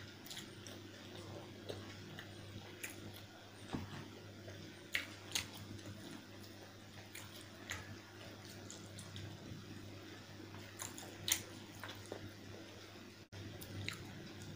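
Wet chewing and lip smacks from someone eating chicken curry with rice, with scattered sharp clicks over a steady low hum.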